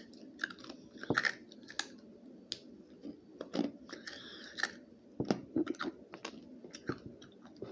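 Someone chewing and crunching crisp dried pear chips close to the microphone: irregular sharp crunches, with a short rustle about four seconds in.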